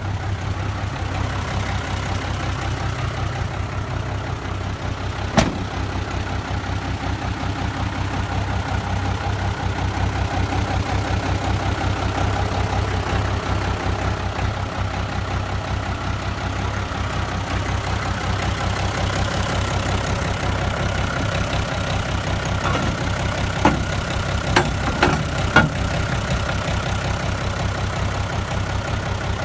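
Isuzu turbo diesel engine of a 1993 GMC W5500 truck idling steadily. A few sharp clicks or knocks sound over it, one about five seconds in and a small cluster toward the end.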